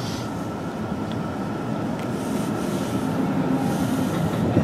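Passenger train with blue-and-white coaches passing close by, its wheels rumbling on the rails and growing slowly louder as the coaches come alongside. A sharp knock near the end.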